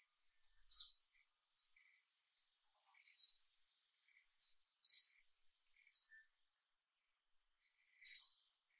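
Short, high bird chirps repeating every second or two, the loudest about a second in, around three and five seconds, and near the end, over a faint steady high tone.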